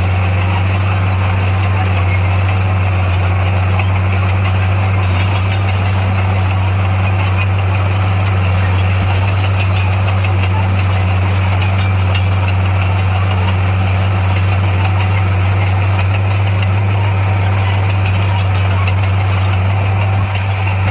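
Heavy construction machine's diesel engine running steadily with a deep, even drone.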